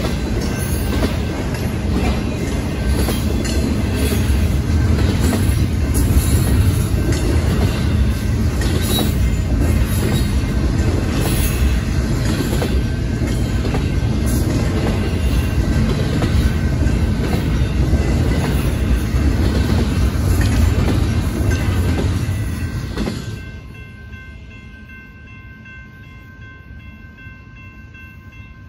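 Intermodal freight train's double-stack container and trailer cars rolling past at a grade crossing, with a heavy rumble and repeated wheel clacks. The last car clears about 23 seconds in and the rumble drops away, leaving the steady ringing of the crossing signal's bell.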